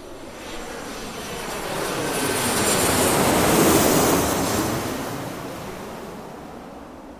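Airplane engine noise swelling to a peak a little past midway and then fading away, as of a plane passing by, with a thin high whine at the loudest point.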